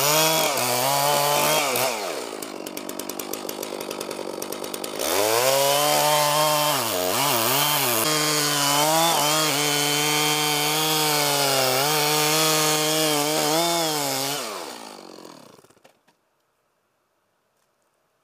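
Chainsaw revving high, dropping to a lower idle for a few seconds, then running at full throttle again for about ten seconds with its pitch dipping and recovering. Near the end it winds down and stops.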